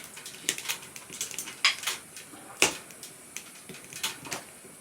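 Irregular light clicks and clinks of small hard objects being handled, a few a second, with one sharper knock about halfway through.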